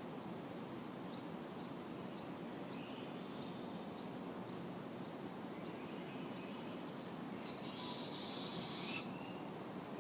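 Barred owl giving one harsh, hissing screech near the end, about two seconds long, with a pitch that rises at its close. A few faint, thin calls come before it.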